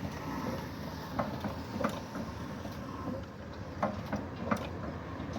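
Old Ruston Hornsby diesel engine running: a steady low rumble with sharp knocks every half second to two seconds.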